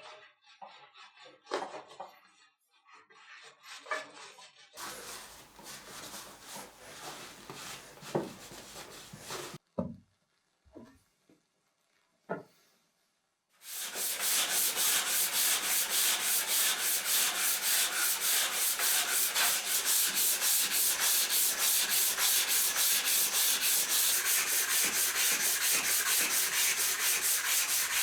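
Sandpaper rubbing on the bread cutter's blade in brisk, even back-and-forth strokes, about four or five a second, starting about halfway through. Before that, scattered light handling clicks and a short stretch of hiss.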